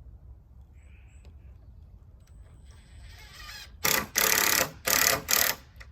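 A power tool run in four short bursts, starting about four seconds in, after a brief rising whir.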